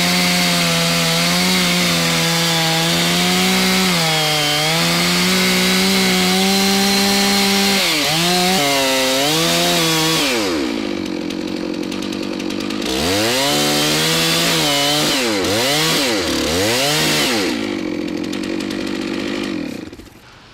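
Two-stroke chainsaw cutting a cottonwood trunk, running at high revs with the pitch sagging under load. In the second half it drops back, is revved up and down several times, then shuts off near the end.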